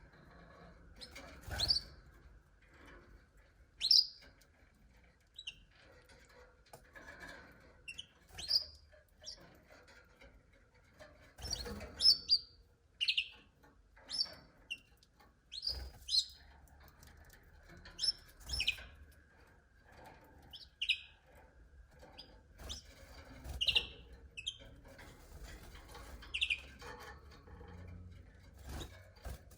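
Domestic canaries giving short, separate high chirps and call notes, about one every second or two rather than a continuous song.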